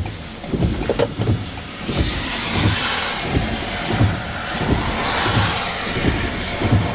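Car driving on the highway: steady road and wind noise that swells several times, with regular low thumps about one and a half times a second.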